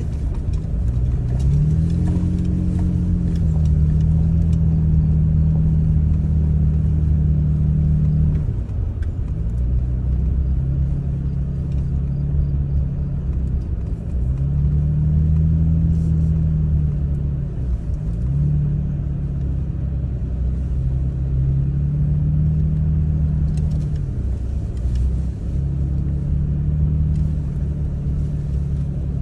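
Vehicle engine heard from inside the cabin while driving slowly off-road, the revs rising and easing off; the engine note dips and picks up again several times.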